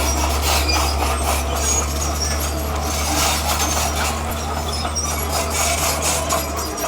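Bulldozer working stone: a steady low engine drone under the irregular scraping, clinking and squeaking of its steel tracks and the rock it pushes. The drone eases slightly near the end.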